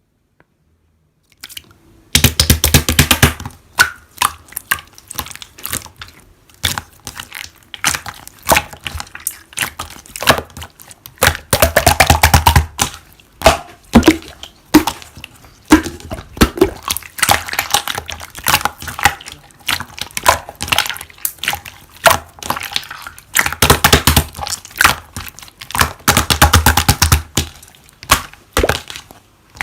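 Slime being squeezed and pressed by hand, making a dense run of wet clicks, pops and crackles. It starts about two seconds in and swells louder in a few stretches.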